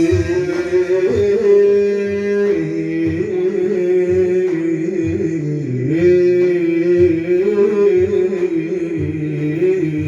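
Sufi devotional music: a long, ornamented melodic line that wavers and turns slowly in pitch, over a lower held line and hand-drum beats.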